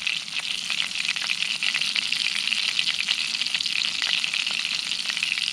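Rabbit leg frying in hot oil in a cast iron skillet: a steady, dense sizzle and crackle.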